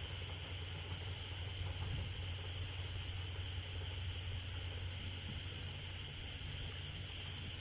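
Night insects chirring steadily over a low, constant hum.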